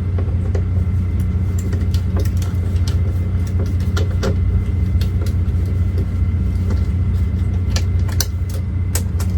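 Truck engine idling with a steady low rumble, with scattered light clicks and taps from hand work on the door trim.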